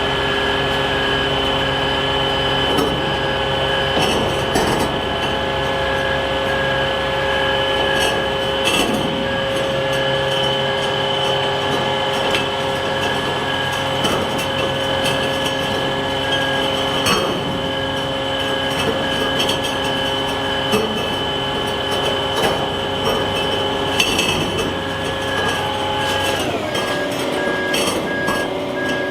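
Kenworth T880 hook truck running, a steady engine drone with several whining tones, with occasional metal knocks and clanks. Near the end the running tones drop in pitch and a back-up alarm beeps steadily.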